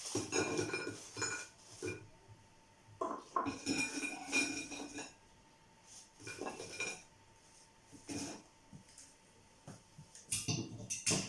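Cutlery and dishes clinking and scraping in several separate bursts, metal on plates or a pot as food is served out.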